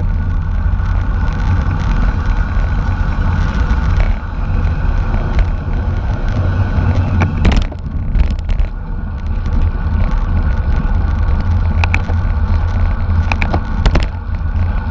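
Heavy wind rumble on the microphone of a camera riding along in a bicycle race, with a steady hum underneath and a few sharp clicks.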